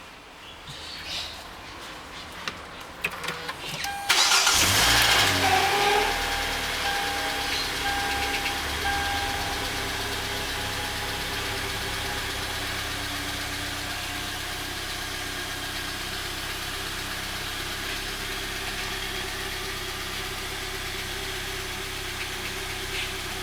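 Hyundai Elantra petrol engine cold-starting: after a few faint clicks, it catches about four seconds in and flares up loudly. It then settles over several seconds into a steady idle.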